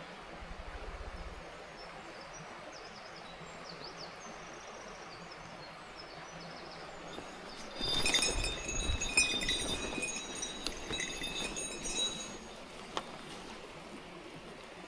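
Steady rush of a mountain stream, with faint high bird chirps. About eight seconds in, a louder stretch of rustling noise with several high ringing tones lasts about four seconds, then a single click.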